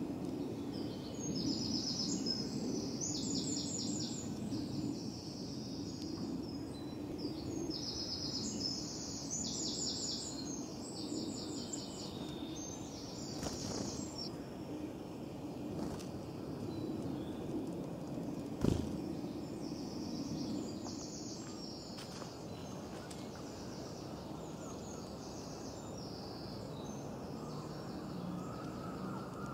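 Small birds singing repeated high trilled phrases over steady low outdoor background noise, with one sharp click about two-thirds of the way through.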